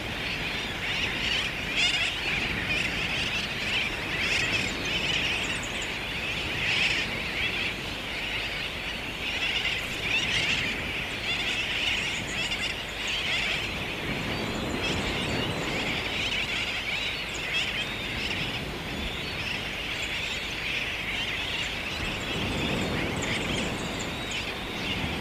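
A dense, unbroken chorus of many birds calling at once. A low rumble swells up under it twice, around the middle and near the end.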